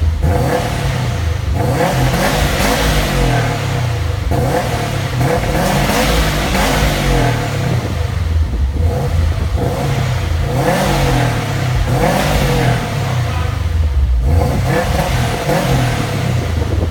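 Subaru Impreza WRX STI turbocharged flat-four running through its stock exhaust with Invidia downpipes, revving repeatedly: the engine pitch climbs and falls back about five times.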